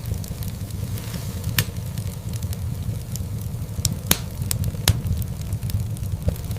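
Wood fire in a fireplace crackling, with scattered sharp pops over a steady low rumble of flames; the loudest pops come about four seconds in and again near five seconds.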